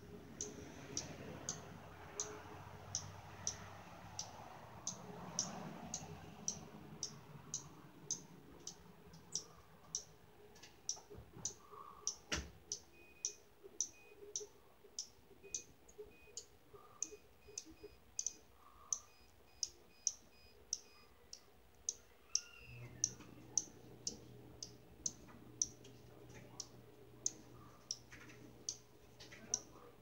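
A small bird repeating one short, high chirp, about two a second at a steady pace. A few fainter, higher notes sound in the middle, and there is one sharp knock about halfway through.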